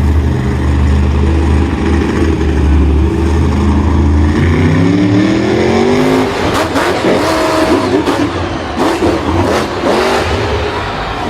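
Vehicle engine running with a steady deep drone, then revving up in rising pitch about four seconds in, followed by uneven knocks and rattles with the engine note wavering.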